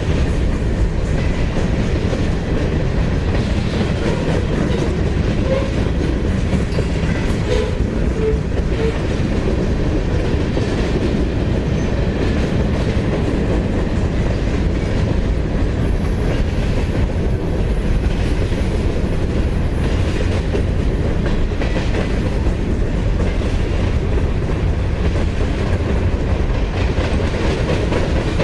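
Freight train cars rolling past at speed, a steady heavy rumble with the clickety-clack of steel wheels over the rails.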